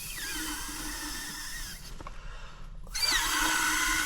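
Small electric air pump whirring as it inflates something, with a steady whine. It dips about two seconds in and comes back louder about a second later.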